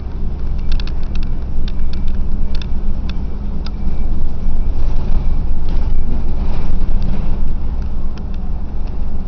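Bus engine running steadily, a loud low rumble with a steady hum, with scattered light clicks and rattles, most of them in the first few seconds.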